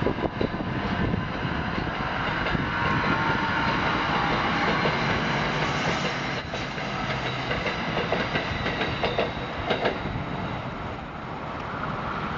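New Jersey Transit Arrow III electric multiple-unit train rolling past and pulling away, a steady rail rumble with its wheels clicking over rail joints.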